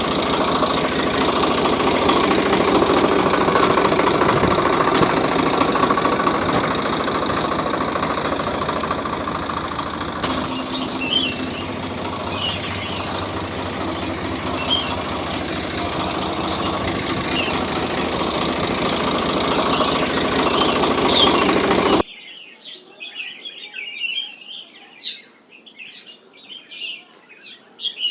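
A mini tractor's motor running steadily, with birds chirping over it. The motor sound cuts off abruptly near the end, leaving only the birdsong.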